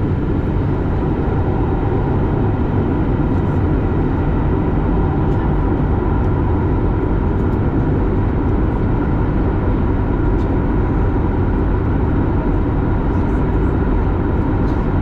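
Airliner noise, a steady, loud mix of low rumble and faint steady tones with no rise or fall.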